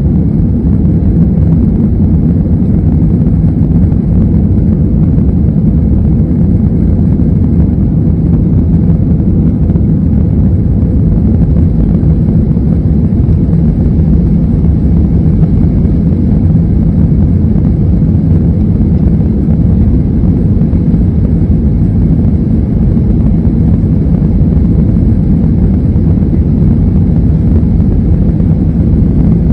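Airbus A320 jet engines running at high thrust, a loud, steady low rumble that does not rise or fall.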